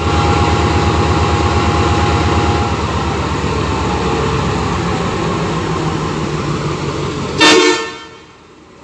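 Class M2 diesel-electric locomotive's EMD two-stroke diesel engine running steadily with a fast low throb, then a short, loud blast of its horn about seven seconds in, after which the sound drops away sharply.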